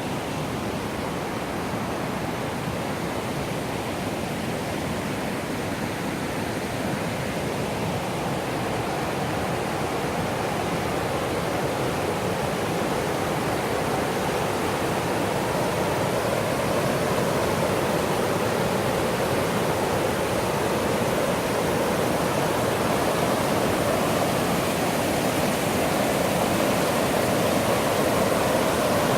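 Rushing water of the Millstone River, a steady noise that grows gradually louder.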